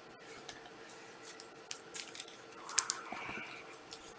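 Trading cards being handled and flipped through: faint scattered clicks and light rustles of card stock, with a short rustle about three seconds in.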